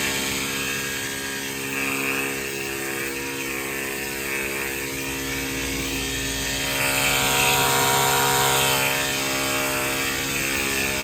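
Battery-powered portable pressure washer running on its high setting: a steady electric pump whine under the hiss of the spray through the foam-soap attachment. The spray hiss grows a little louder a little past halfway.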